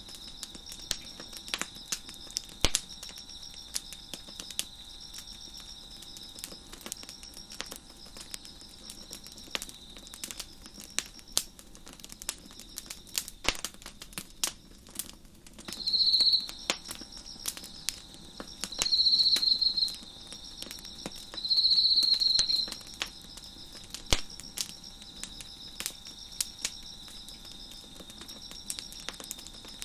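Wood fire crackling with scattered sharp pops, over crickets chirping in a steady, high-pitched chorus. Around the middle, three louder, high calls of about a second each stand out above the chorus.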